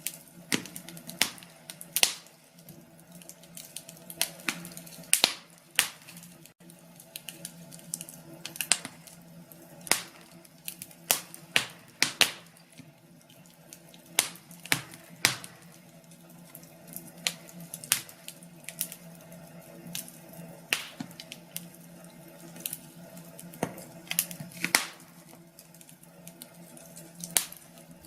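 Wood fire crackling in a fireplace: irregular sharp pops and snaps, about one or two a second, over a faint steady hum.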